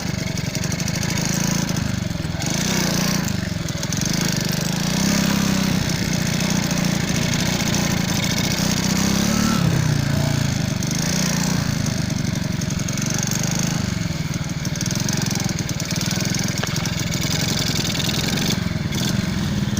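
Motorcycle engine running while under way, its pitch rising and falling with the throttle, over a steady rush of wind noise.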